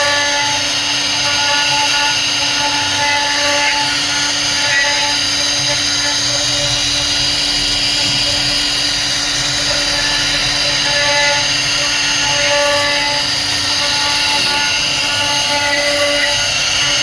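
CNC router spindle running steadily as it carves wood, a constant whine of several high tones with small swells in pitch and load every few seconds.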